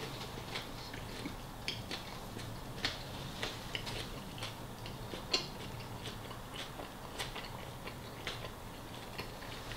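A person chewing a mouthful of soft tortilla wrap close to the microphone: scattered small wet clicks and smacks of the mouth, irregular and soft.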